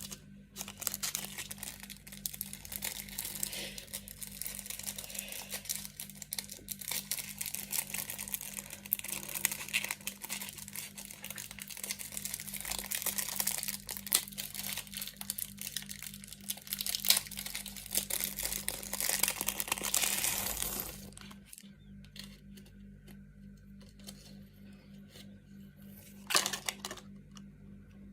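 Packaging being crinkled and torn open by hand, a dense run of crackles and rips for about twenty seconds that then stops, with one more short rustle near the end.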